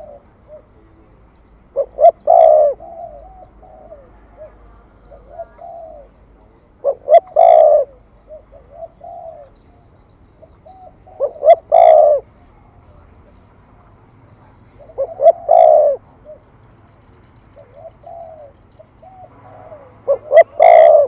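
Spotted dove cooing in the 'thúc gù' urging call used to rouse decoy birds. Each phrase is a few short notes and then a longer one, and it comes five times, about every four to five seconds, with softer coos between.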